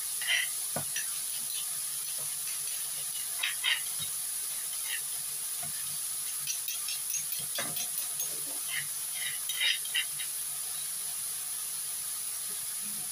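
Minced pork in chili-tomato paste frying in a wok, with a steady sizzle and scattered short pops and crackles.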